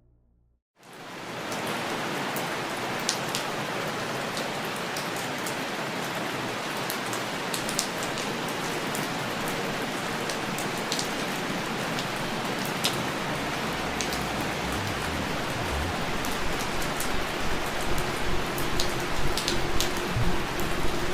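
Steady rain falling, with single drops clicking now and then. It starts abruptly about a second in, and a low rumble joins it in the second half as it grows a little louder.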